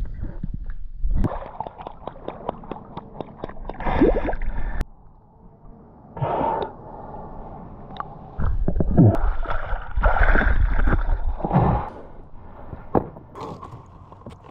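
Water sloshing and gurgling around a swimmer in irregular bursts, loudest near the end.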